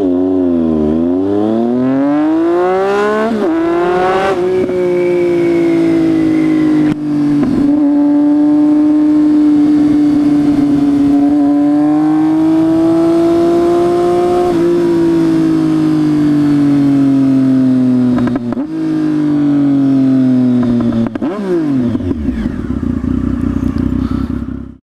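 2014 Triumph Speed Triple 1050's inline three-cylinder engine running with open headers, its exhaust cans removed, heard from a mic inside the rider's helmet. The revs climb through the gears in the first few seconds, then hold fairly steady with a few shifts. About 21 s in they drop back to a low steady idle before the sound cuts off abruptly.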